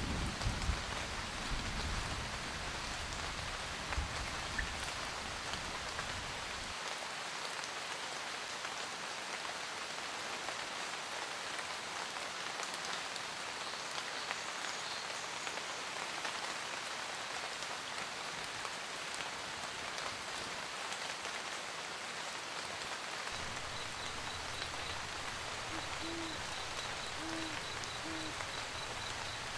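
Steady rain pattering on a camper van roof, with a low thunder rumble dying away in the first few seconds. An owl hoots three times near the end.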